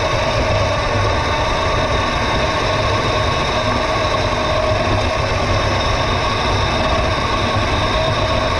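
Mini bike running at a steady speed along a trail, its motor holding an even pitch throughout, with wind buffeting the microphone.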